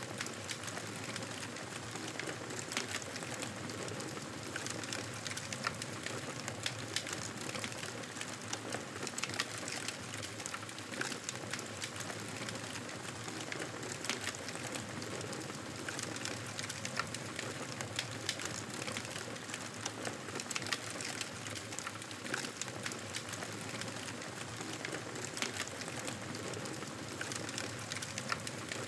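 Campfire burning: a steady hiss of flames with frequent sharp crackles and pops from the burning wood.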